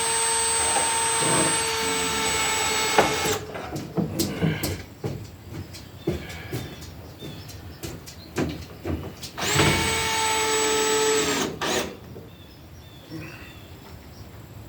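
An electric power tool's motor running with a steady whine, then winding down about three seconds in. A few knocks follow. About ten seconds in it spins up again, runs for about two seconds and winds down.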